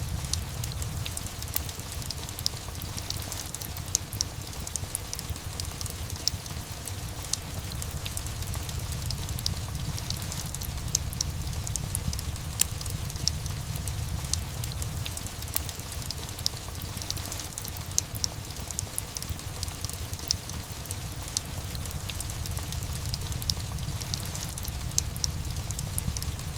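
Steady rain mixed with a crackling wood fire: sharp, scattered crackles and pops over a continuous wash of rain and a low, steady rumble.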